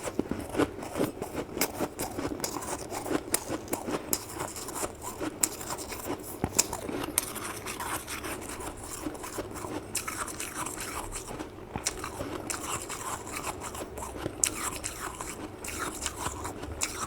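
Close-miked crunching of freezer frost being bitten and chewed: a dense, irregular run of sharp crackles and crunches.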